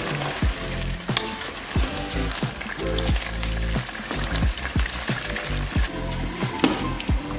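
Chicken wings sizzling in their seasoned juices in a pot on a gas stove, stirred with a wooden spoon. A glass lid goes on near the end. Background music with a steady low beat plays under it.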